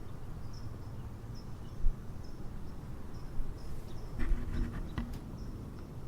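Crickets chirping, short high chirps repeating about once or twice a second over a low background rumble, with a few faint clicks about four seconds in.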